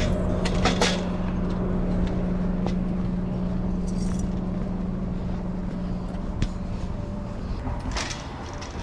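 Pickup truck driving, heard from inside the cab: a steady low engine and road drone with a held hum, gradually getting quieter toward the end, with a few light clicks and knocks.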